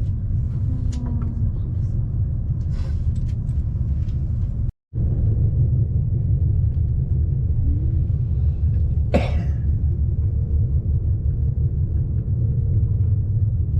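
Steady low rumble of a passenger train running, heard from inside the carriage. It drops out for a moment about five seconds in, and a short sharp noise comes about nine seconds in.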